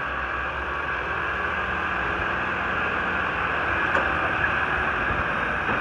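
A vehicle running steadily, heard as an even, dense rush of noise with a low rumble under it.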